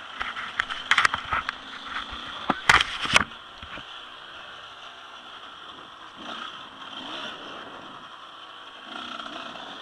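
Motocross bikes running in the distance as a steady drone. A cluster of sharp clicks and knocks in the first three seconds stands out as the loudest sound.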